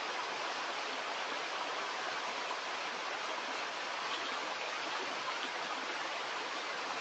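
Stream water running steadily, an even rushing.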